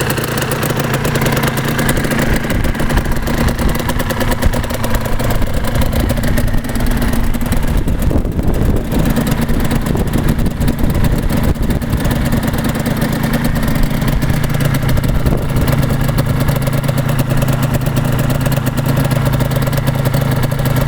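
1989 Suzuki RGV250's two-stroke V-twin engine running steadily after a cold start, the engine freshly rebuilt with new pistons and rings.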